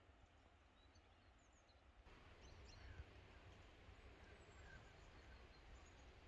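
Near silence: faint outdoor ambience with a few distant birds chirping briefly now and then.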